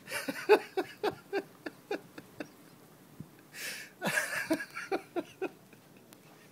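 Beagle whining and yipping in quick runs of short cries, each falling in pitch, about three or four a second, with a breathy snort between the two runs.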